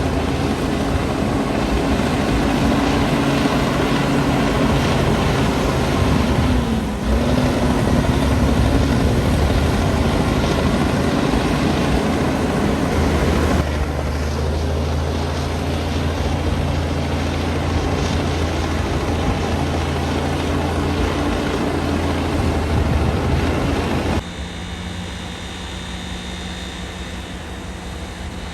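Komatsu D60P bulldozer's diesel engine running steadily as the dozer works, with a brief dip in pitch about seven seconds in. The engine sound becomes suddenly quieter a few seconds before the end.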